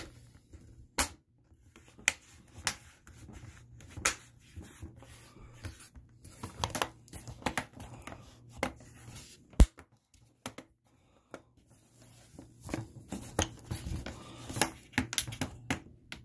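Hands working on a laptop's screen assembly: irregular sharp clicks and short scrapes of small plastic and metal parts being pressed and fitted together, with one especially sharp click about ten seconds in.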